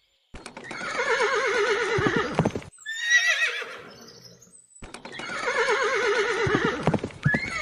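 Horse neighing: a long quavering whinny, a shorter, higher whinny, then the long whinny again.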